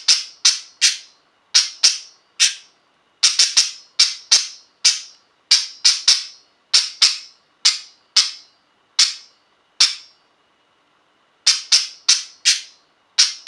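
Pet budgie making its sharp, repeated attention-seeking sound: short clicks with a quick ringing tail, about two a second, with a pause near the end. It makes the sound to say it wants something.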